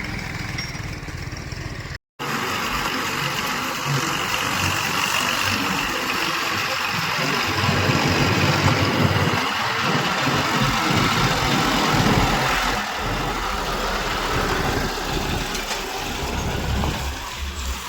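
Diesel engine of a backhoe loader or tractor running steadily under work, with a brief total cut-out of the audio about two seconds in.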